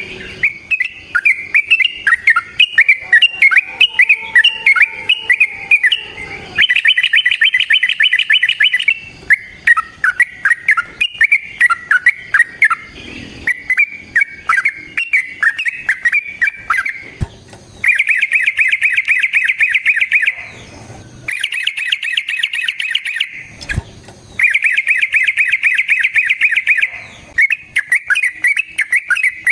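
Yellow-vented bulbul (trucukan) singing: bubbly, choppy chattering phrases alternating with long, very fast rolling trills, four of them, each held two to three seconds.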